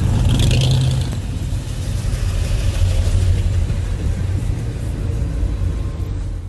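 Car engine running with a deep, low rumble. The sound cuts off abruptly at the very end.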